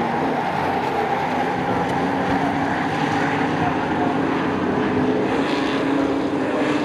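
A pack of short-track racing trucks running at speed, several engines heard at once as one steady, dense engine noise with overlapping pitches.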